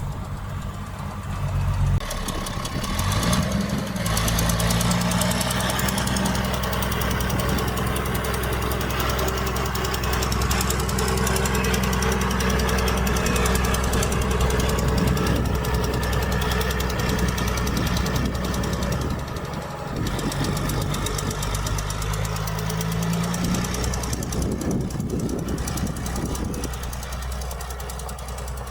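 Heavy diesel engine of earthmoving machinery working under load. It revs up a few seconds in, holds, eases off, then revs up again briefly near the end.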